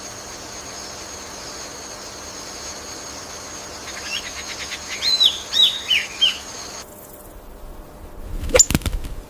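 Bird calling: a quick run of four or five loud down-slurred notes about five seconds in, over a steady high buzz. The buzz stops abruptly near seven seconds, and a few sharp clicks follow near the end.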